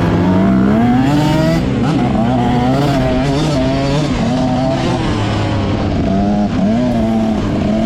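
Motocross bike engine revving hard and continuously, its pitch climbing and dropping over and over as the throttle is opened and shut.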